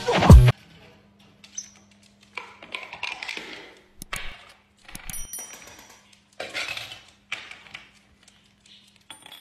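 A coin being handled by a masked lovebird on a tabletop: scattered clinks and scrapes with a few sharp clicks.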